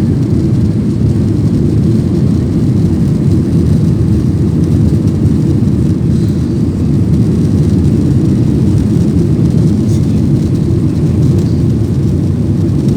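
Airliner engines at takeoff thrust heard inside the passenger cabin: a steady, loud, low rumble.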